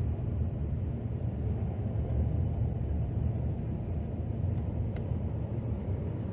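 Steady low rumble of a Chevrolet Silverado pickup driving, heard from inside the cab: engine and tyre noise on a snowy road. A faint click sounds about five seconds in.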